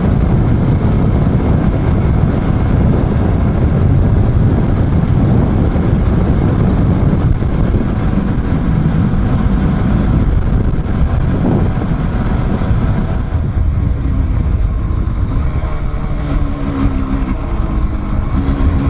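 Dual-sport motorcycle engine running under way, a dense steady low rumble, with the engine's pitch coming through more clearly near the end.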